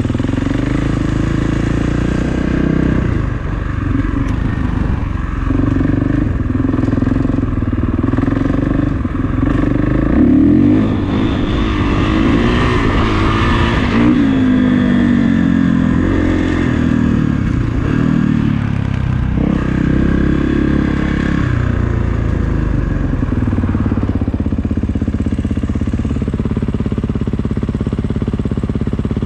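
Kawasaki KX450 dirt bike's single-cylinder four-stroke engine under way, its pitch rising and falling with the throttle and gear changes, loudest and highest about ten to fourteen seconds in.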